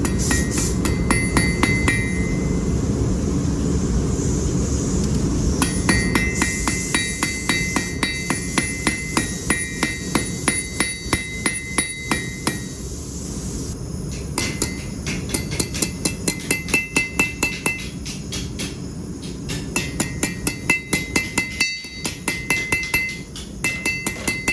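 Hand hammer striking hot metal on an anvil in quick, rhythmic runs of blows with short pauses between, many strikes ringing with a metallic tone, as the end of a forged Thor's hammer pendant is spread flat. A steady low rumble runs underneath.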